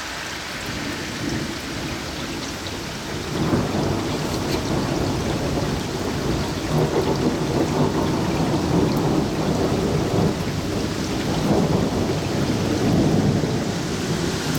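Thunderstorm: steady rain, joined about three and a half seconds in by a long rolling rumble of thunder that swells and fades several times and carries on to the end.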